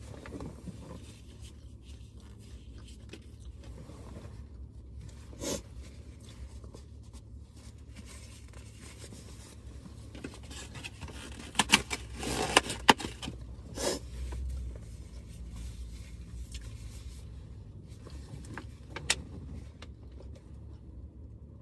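Things being handled at close range: a few sharp clicks and a spell of scraping and rustling about halfway through, over a steady low hum.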